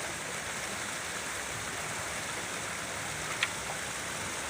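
Falling water rushing steadily, with one short sharp tick or splash about three and a half seconds in.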